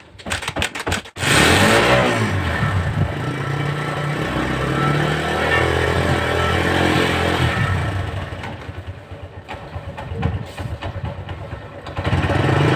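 Motorcycle engine cranked with a quick run of clicks, catching about a second in and revved, then running steadily. Around 8 s the engine sound drops away, and it comes back loud near the end.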